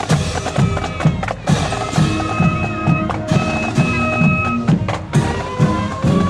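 Marching band playing: steady drum strokes, with held brass notes coming in about two seconds in.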